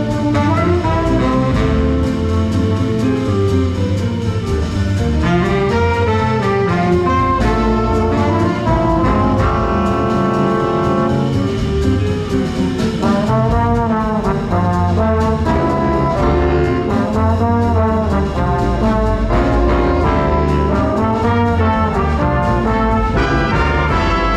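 Big band playing jazz, led by its brass section of trumpets and trombones in several parts at once, loud and without a break.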